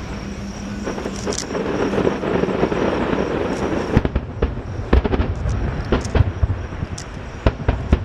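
Aerial fireworks going off. A dense crackling wash fills the first half, then a run of sharp, separate bangs follows, several a second, from about halfway through.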